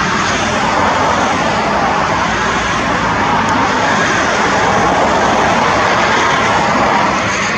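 Steady, loud jet engine noise from an Airbus A320.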